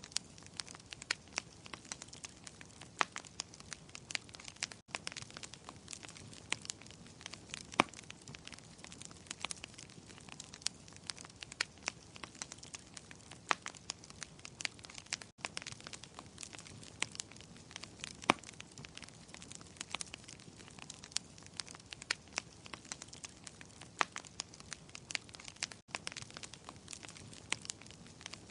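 Wood fire in a fireplace crackling: a dense, irregular stream of sharp snaps and pops over a soft hiss, with a few louder pops now and then.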